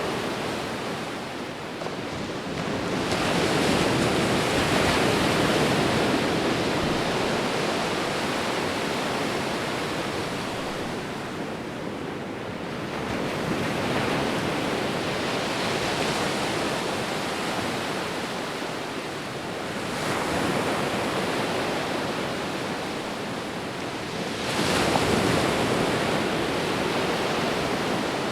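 Sea waves breaking on a shore, a steady wash of surf that swells with each wave. The waves come about every five to six seconds, and the one near the end rises most sharply.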